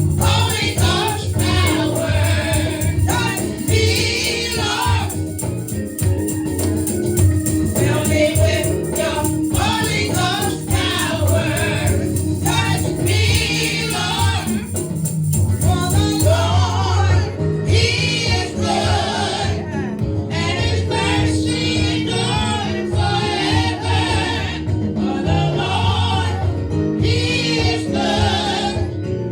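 Gospel music: a church praise team singing with wavering, held notes over steady band accompaniment.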